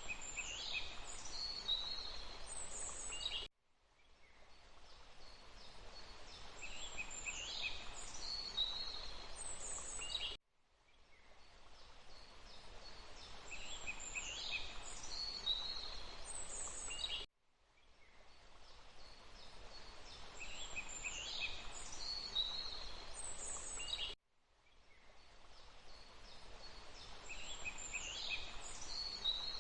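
A short forest ambience recording looped about every seven seconds: a steady hiss of background noise with a few high chirping bird calls in each loop. Each repeat cuts off abruptly, four times here, and fades back in.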